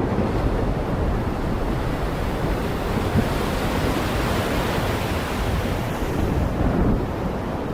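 Heavy rain falling, a steady dense rush of noise with no distinct drops or thunder.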